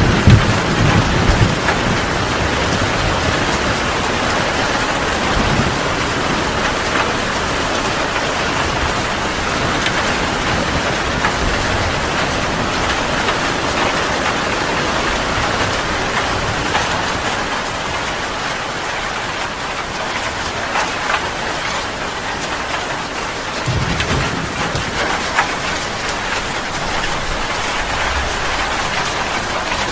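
Heavy rain falling steadily, with low thunder rumbling right at the start and again about three-quarters of the way through.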